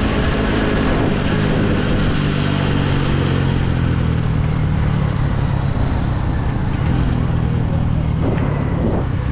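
Motorcycle engine running under way, its note sinking slowly as the revs drop, with wind rushing over the action camera's microphone.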